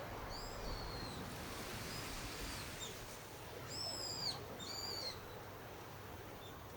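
A bird calling outdoors: several short, high, arching whistled calls, the two clearest coming close together about four and five seconds in, over a steady hiss of background noise.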